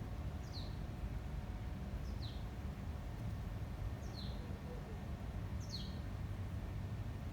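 A small bird calling four times, each a short high chirp falling in pitch, spaced about every one and a half to two seconds, over a steady low wind rumble on the microphone.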